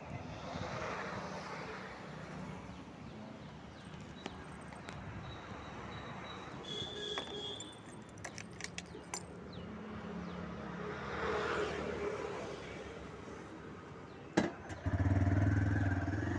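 Keys clicking and jangling at a motorcycle's ignition. About fourteen seconds in, a sharp click, then the TVS Raider 125's single-cylinder engine starts and settles into a steady idle.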